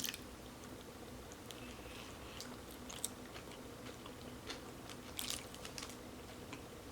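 A person chewing and biting food close to the microphone: faint, scattered mouth clicks and small crunches, a few louder ones about five seconds in.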